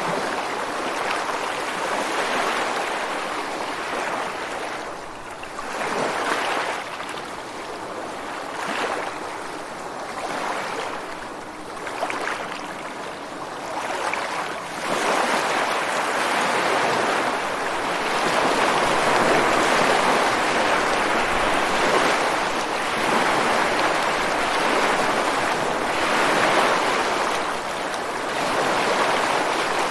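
Ocean surf washing ashore and breaking against rocks: a continuous rushing that swells as each wave comes in, growing louder and fuller about halfway through.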